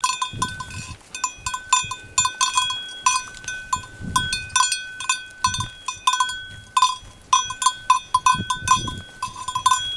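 Livestock bells clanking irregularly and ringing on as animals move, with a few low animal calls in between.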